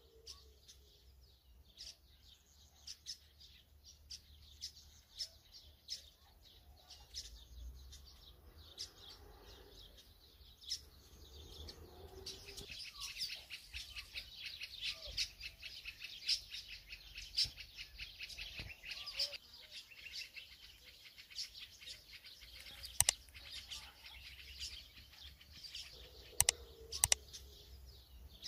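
Small birds chirping over and over, busiest through the middle, over a low steady hum. A few sharp taps stand out near the end.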